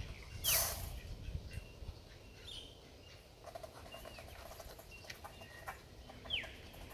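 Birds calling: about four short whistles that fall in pitch, spaced a second or more apart. A brief rustling burst comes about half a second in.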